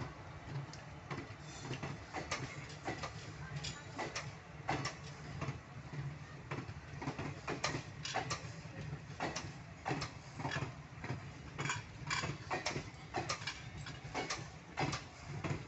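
Passenger train coaches rolling past slowly, a steady low rumble with sharp wheel clicks over rail joints, about two or three a second, coming unevenly.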